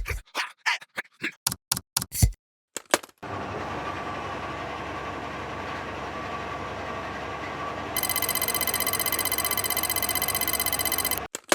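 A quick run of sharp clicks and knocks, then a steady mechanical running noise with a low buzz, like a vehicle motor. About eight seconds in it gets louder and picks up a rapid, pulsing high buzz.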